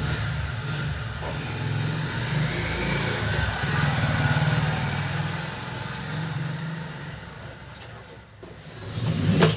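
Canon LBP2900 laser printer running, its drive motor and gear train whirring, with a swell just before it stops suddenly near the end.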